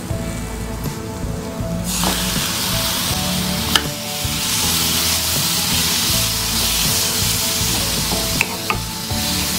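Chopped tomatoes sizzling in hot oil with onions and green chillies in a nonstick pan. The sizzle gets louder about two seconds in as the tomatoes go in, and a wooden spatula stirs them with a few knocks on the pan.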